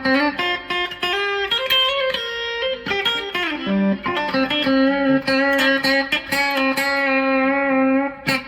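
A single-coil Squier Affinity Stratocaster electric guitar playing a run of picked single notes with a few slides. About five seconds in, one note is held and rings for roughly three seconds.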